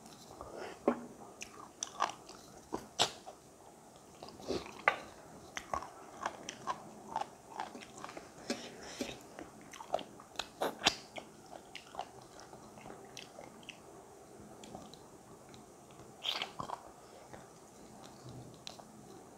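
Close-miked chewing and biting while eating maize-flour dhido and chicken wings by hand: wet mouth sounds with sharp, irregular crunchy clicks, easing off for a few seconds about two-thirds through before another cluster of bites.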